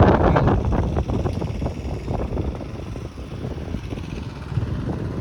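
Wind rushing over the microphone and road noise from a moving Bajaj NS200 motorcycle. The rush is loudest in the first second, eases off midway and picks up again near the end.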